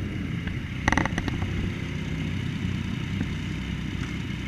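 Yamaha Tracer 900's three-cylinder engine running steadily at low revs, with a short burst of clicks about a second in.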